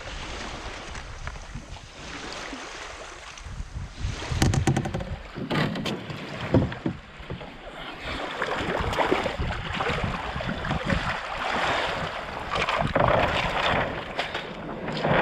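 Wind on the microphone and water at the shore around a canoe being landed, with a run of knocks and clatters of the canoe and gear about four to seven seconds in, then a louder rushing of wind and water.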